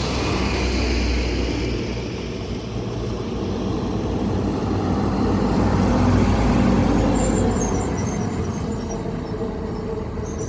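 Road traffic: a motor vehicle's engine and tyre noise running steadily, swelling to its loudest about six seconds in and easing off again.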